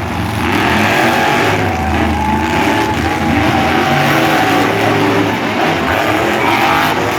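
Monster truck engines racing, loud and sustained, with their engine tones wavering up and down in pitch.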